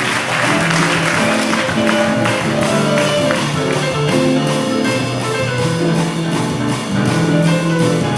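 Big band playing an instrumental passage, horns holding sustained notes over a steady beat. The tail of audience applause fades out about a second in.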